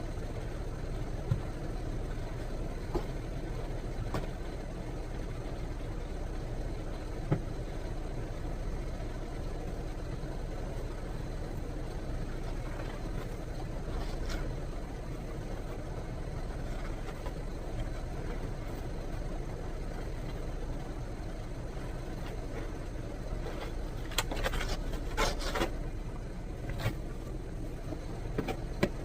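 Steady low rumble of a running engine, with a few sharp knocks early on and a short run of scraping sounds near the end.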